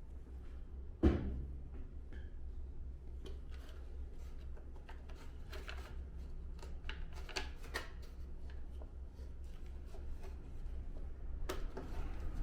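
Parts of an air-conditioner indoor unit being handled during reassembly. There is a sharp knock about a second in, then a run of light clicks and rustles, and another knock near the end, over a steady low hum.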